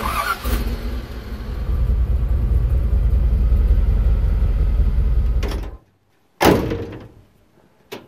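A carbureted LS V8 started on the key and running with a steady low rumble, which cuts off suddenly after about six seconds. About half a second later a single loud hit fades out over about a second.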